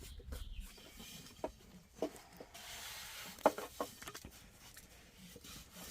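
A few light taps and clicks, scattered and irregular, over a faint hiss.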